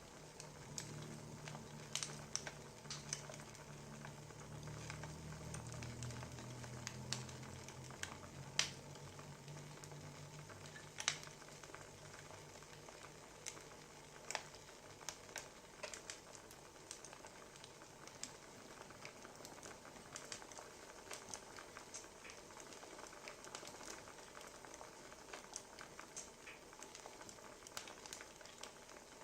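Wood fire crackling: irregular sharp pops and snaps over a faint hiss, with a low hum for the first half.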